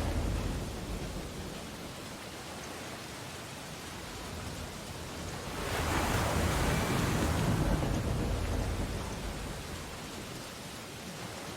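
Ocean waves on a beach: surf noise with the tail of one wave fading in the first second, then another wave breaking about six seconds in, swelling for a couple of seconds and washing away.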